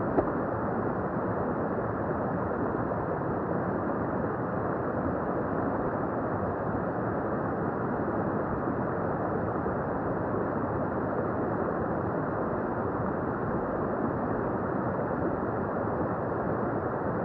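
A small brook babbling over stones: a steady, even rush of running water that does not change, with one brief bump just after the start.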